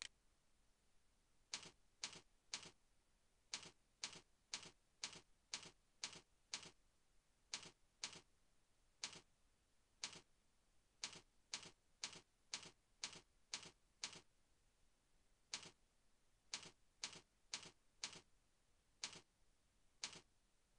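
Computer keyboard keystrokes as text is typed: sharp single clicks, about two a second, with short pauses between runs.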